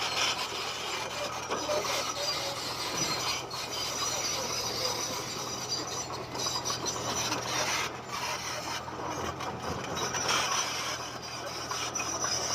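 Komatsu D20P bulldozer working, its diesel engine running steadily under a continuous rasping, grinding noise of tracks and stone being pushed.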